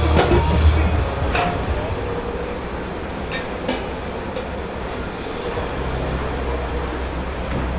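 Steady low rumble of running kitchen machinery, with a few light clinks of crockery in the first few seconds.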